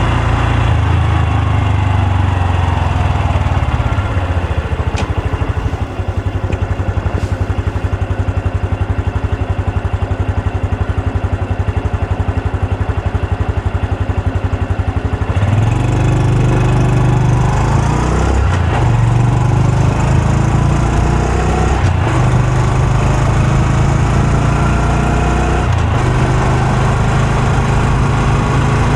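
Honda Super Cub C125's single-cylinder four-stroke engine and exhaust, slowing in the first few seconds and settling into a steady, pulsing idle. About halfway through it pulls away, revs rising through the gears, then runs steadily at road speed.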